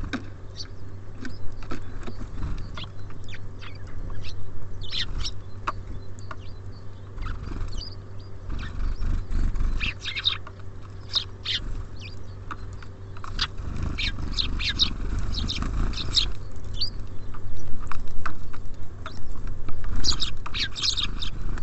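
Small songbirds at a feeder: many short, high chirps and calls, in clusters, with knocks and scrabbling as they land and peck at the feeder, busiest about two-thirds of the way through.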